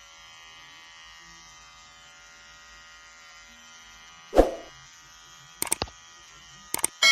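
A steady electric buzz with many high overtones. About four seconds in there is a brief loud sound, then a few sharp clicks, and at the very end a metallic clang starts to ring.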